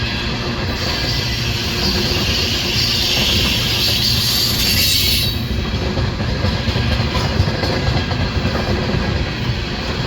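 Loaded coal train rolling past: a steady heavy rumble of steel wheels on rail, with a high hiss from about a second in to about halfway through.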